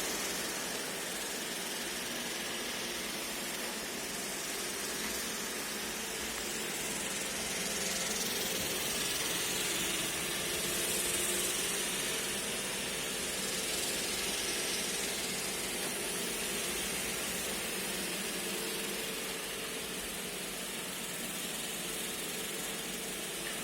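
iRobot Roomba e5 robot vacuum running, a steady hiss of its motor and brushes with a faint hum, the level barely changing.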